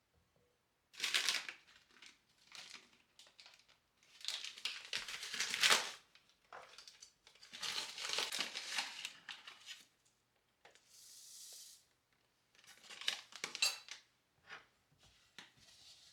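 Crinkling and rustling handling noise in bursts of a second or two, with a short steady hiss about eleven seconds in.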